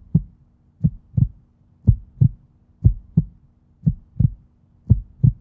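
Heartbeat sound effect: paired low thumps in a lub-dub rhythm, about one pair a second, over a faint steady hum.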